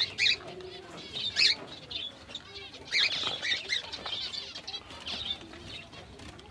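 Pet cage birds chirping in short scattered calls, with light fluttering and rustling.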